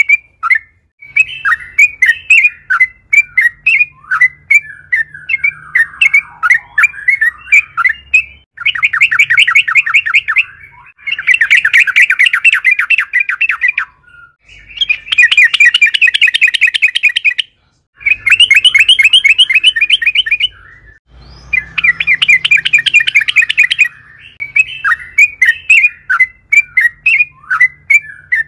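Yellow-vented bulbul (trucukan) singing loudly. Short bubbly chattering phrases give way to a run of long, fast rattling trills, each a few seconds long with brief pauses between them, and the chattering returns near the end.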